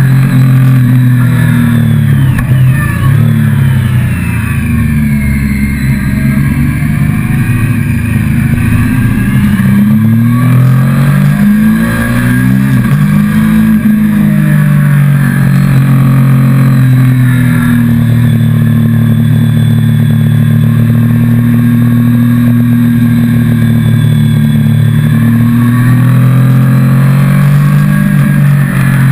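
Motorcycle engine heard from on board while riding, running under load at road speed. Its pitch falls and climbs again as the throttle eases and opens through the bends a few seconds in and again around the middle, then holds steady for a long stretch and drops near the end.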